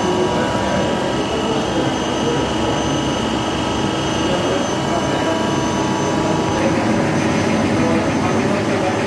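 Factory machinery running steadily, a dense mechanical noise with several constant whining tones; about two-thirds of the way through one high whine stops and the sound changes slightly.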